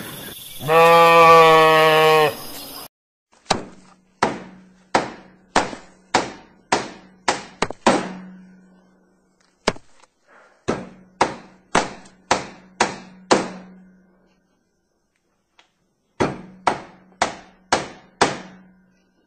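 A long farm-animal call at the start, then hammer blows in three runs of several strikes each, about two a second, each blow leaving a short low ringing hum.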